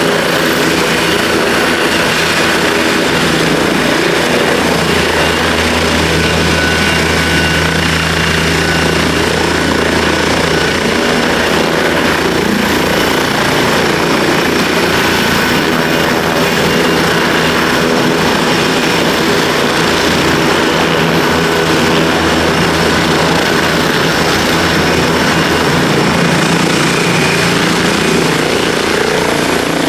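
Twin-engine turbine helicopter running close by: a loud, steady mix of rotor noise and turbine whine, with a low hum that swells for several seconds a few seconds in and again past the middle.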